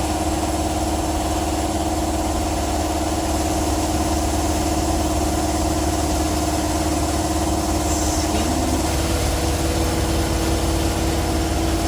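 Steady mechanical hum of a running motor or engine, holding a constant pitch with a strong low drone; the tone shifts slightly about nine seconds in.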